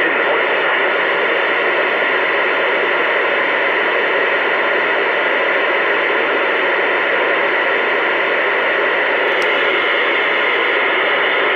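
CB radio receiver hissing with loud, steady static through its speaker, with no voice on the channel.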